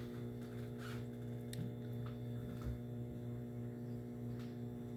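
Steady electrical hum, a low even buzz with no change in pitch, with a few faint clicks.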